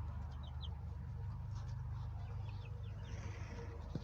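Baby chicks peeping: short, high, downward peeps in a few quick runs, over a steady low hum.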